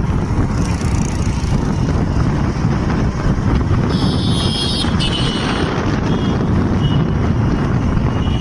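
Wind buffeting the microphone over the running noise of a motorcycle on the road, a steady loud rumble. A brief cluster of high tones sounds about four seconds in.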